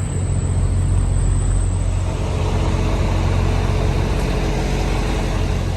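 Diesel semi-truck engines idling, a steady low hum.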